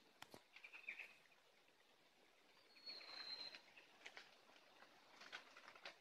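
Faint wild bird calls: a few short chirps about a second in, a thin high whistled note held for about a second near the middle, and scattered short chirps toward the end, with a couple of sharp clicks just after the start.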